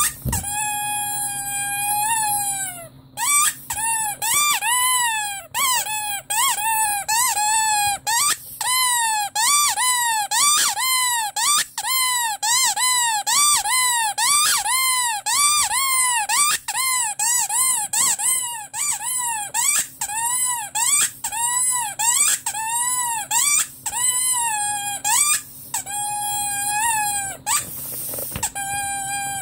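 Rubber squeaky toy squeezed over and over: one long squeak first, then a quick run of short squeaks that rise and fall in pitch, about two a second. A short burst of air-like hiss comes near the end.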